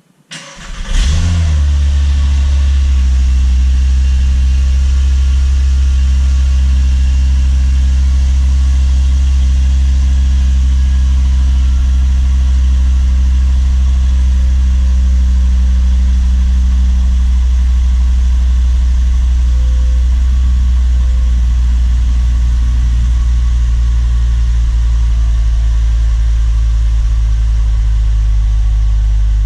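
A VW Rabbit (MKV) 2.5-litre five-cylinder engine is started cold for the first time after its rebuild. The starter cranks briefly and the engine catches about a second in, then idles steadily, its idle note settling a little lower after about twenty seconds.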